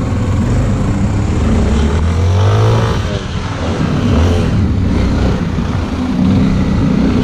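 Motorcycle engine running hard under the rider, with a rise and fall in pitch about two to three seconds in as the throttle is opened and eased off.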